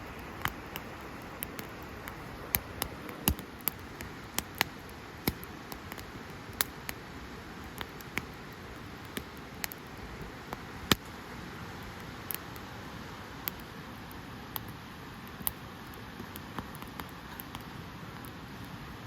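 Wood fire crackling in a Picogrill fire pit: a steady low hiss with irregular sharp pops, about one or two a second, one of them louder about halfway through.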